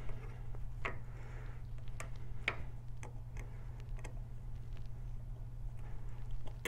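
Small metal clicks and ticks, about eight spread irregularly, as a cam shim and its snap-ring retaining clip are fitted onto a Harley twin cam's cam support plate. A steady low hum runs underneath.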